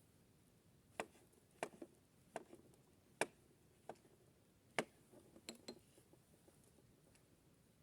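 Irregular light clinks and taps of dishes or cookware being handled, about nine sharp knocks spread over some five seconds, starting about a second in.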